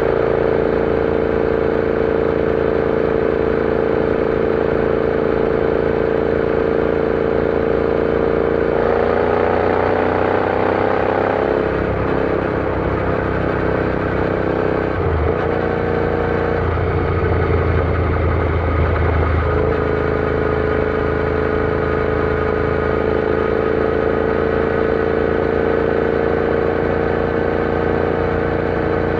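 Royal Enfield Interceptor 650's parallel-twin engine running on the road at steady cruise. About nine seconds in the pitch rises for a couple of seconds, then drops and wavers through the middle before settling back to a steady note.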